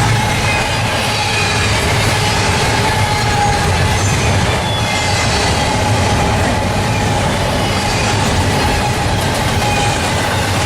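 Norfolk Southern freight train rolling past, a steady rumble of its cars on the rails with clacking over the joints and a thin squeal of wheels on rail.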